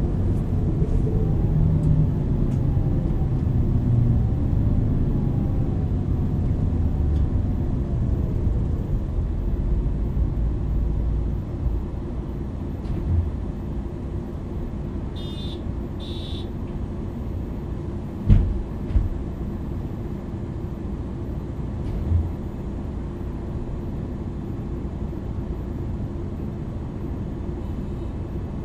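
MAN NL 323 city bus with a ZF EcoLife automatic gearbox, heard from inside. Engine and driveline run under way with a gliding gearbox whine for the first several seconds, then settle to a quieter steady rumble. Around the middle there is a short high beeping, followed by a couple of brief thumps.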